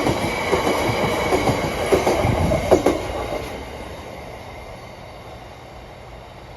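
Freight train wagons rolling past over the rails, with repeated wheel knocks at the rail joints and a thin steady high whine from the wheels. About three seconds in the last wagons clear and the sound fades quickly to a low background.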